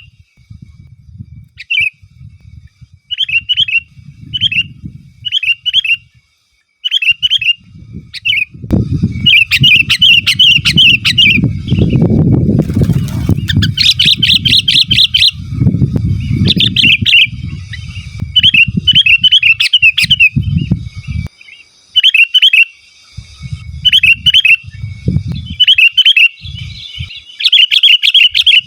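A sooty-headed bulbul (kutilang) calling over and over in short, quick phrases of bubbly notes. The phrases run together faster in the middle and near the end. A low rumble comes and goes underneath, loudest in the middle.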